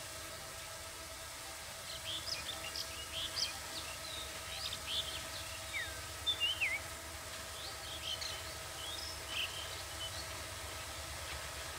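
Birds chirping in quick short calls, some sliding down in pitch, over a faint steady low rumble from the distant diesel locomotive drawing near.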